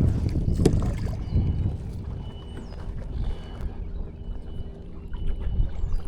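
Low rumble of wind on the microphone and water around a small kayak on open water, with a few faint high chirps.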